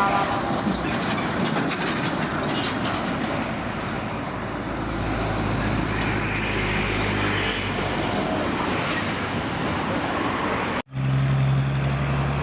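Heavy vehicle noise: a steady rumble of big trucks running, with a low engine hum. The sound cuts off abruptly about eleven seconds in and goes straight to a steadier low engine drone.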